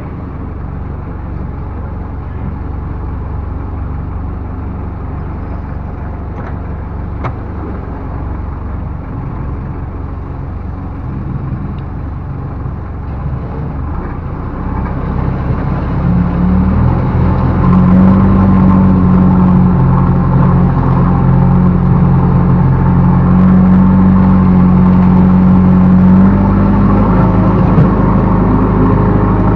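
Backhoe loader's diesel engine running steadily, then revving up about halfway through and holding at higher revs, easing off slightly near the end.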